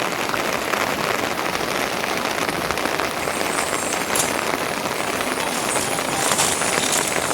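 Steady rain pattering on a surface, an even hiss of drops.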